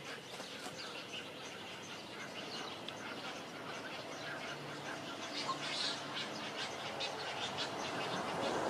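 Birds chirping in many short, quick calls over a steady background hiss, busiest about five to six seconds in.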